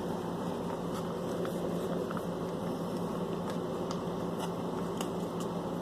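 Steady low hum and hiss of background room noise, with a few faint small clicks scattered through it.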